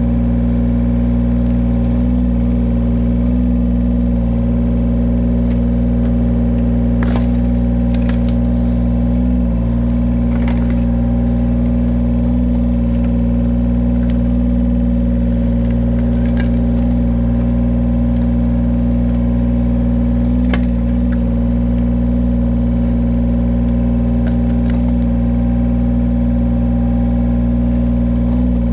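Diesel engine of a small heavy-equipment machine running at a steady speed, dipping briefly under load now and then, with a few sharp cracks as firewood is split by its hydraulic cutter.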